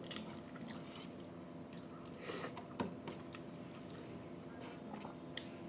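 A person chewing and eating a meal of rice and mashed sides, with irregular soft wet clicks and mouth smacks and a louder squishy bite between two and three seconds in, over a low steady hum.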